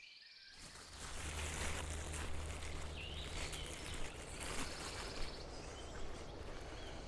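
Outdoor riverside ambience: a steady rushing noise with a low hum under it, and a few short bird chirps. It rises out of near quiet in the first second.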